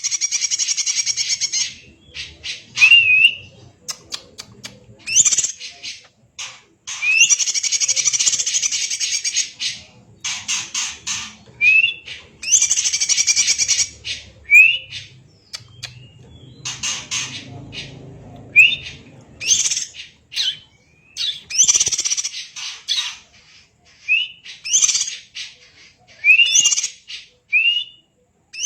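Greater green leafbird (cucak ijo) singing loudly and continuously: rasping, buzzy phrases of a second or two alternate with short rising whistled notes, over and over.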